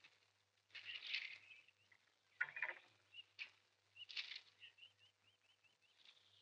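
Faint birdsong: scattered short high chirps, then a quick run of about six repeated short notes about two thirds of the way in.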